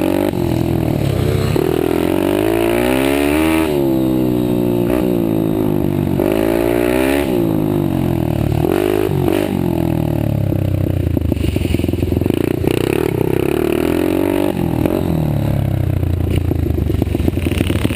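Several pit bike engines racing, their pitch rising and falling over and over as the riders open and close the throttle, with more than one bike heard at once.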